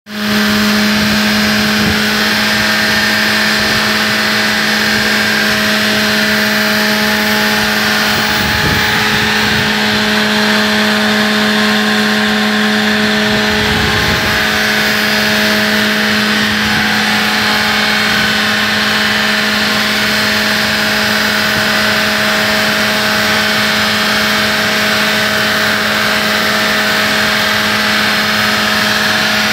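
Car engine running at a constant speed, one steady unchanging hum, while it is being tuned with a Unichip piggyback module from a laptop.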